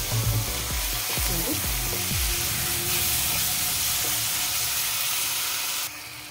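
Pan-frying masala sizzling: ground tomato puree just added to hot oil, onions and spices, with spoon knocks and stirring in the first couple of seconds. The sizzle drops off suddenly near the end.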